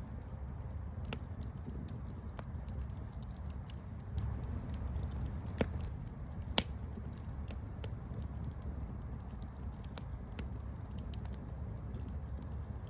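Campfire crackling: many small sharp pops over a low steady rumble, with two louder pops about halfway through.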